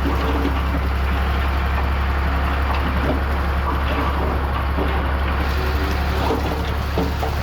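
Heavy diesel earthmoving machinery running steadily with a low drone, with scattered knocks and rattles throughout.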